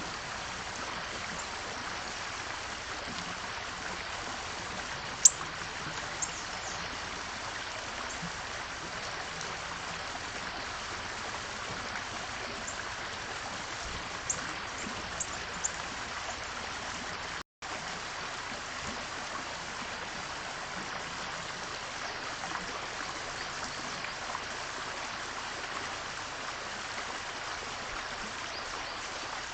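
A steady rushing hiss like running water, with a few brief, sharp, high chirps or ticks, the loudest about five seconds in and a small cluster around fourteen to sixteen seconds in. The sound drops out for an instant about two-thirds of the way through.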